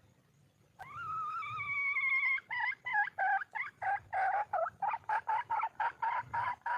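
A wild junglefowl hen calling: one long drawn-out note about a second in, then a quick run of short clucks that speeds up slightly toward the end. It is the hen's call to attract a male.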